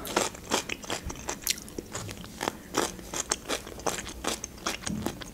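Close-up chewing of a crunchy cucumber piece: irregular crisp crunches and bites, several a second.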